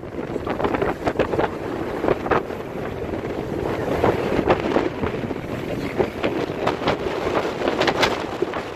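Wind buffeting the microphone on a moving cruise boat: a steady rush with irregular gusty thumps throughout.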